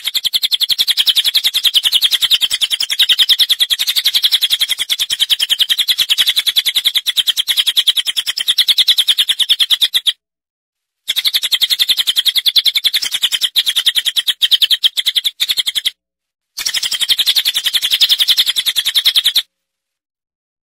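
Recorded bird calls from a masteran training track: a loud, rapid, high-pitched chirping trill that runs in three stretches, broken by short pauses about ten and sixteen seconds in, and stops about a second before the end.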